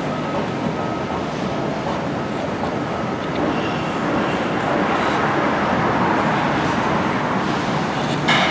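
Steady running noise of a train moving on its rails, slightly louder about halfway through.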